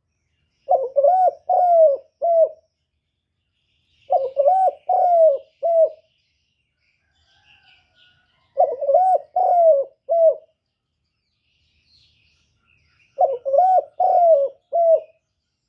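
A bird calling in four phrases, each of about four low notes that rise and fall, one phrase every four to five seconds.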